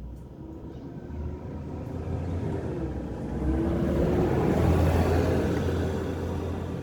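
A motor vehicle's engine rumble growing louder to a peak about five seconds in, then fading a little, as of a vehicle passing by.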